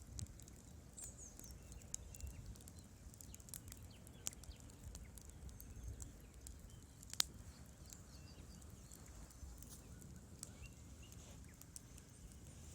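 Wood fire crackling in a fireplace: scattered sharp pops and snaps from the burning logs over a low rumble of flame, with one louder pop a little past the middle.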